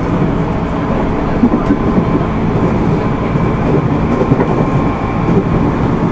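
Interior running noise of a JR East 205 series 600-subseries electric multiple unit travelling between stations: a steady loud rumble of wheels on rail with a faint steady whine and a few light knocks.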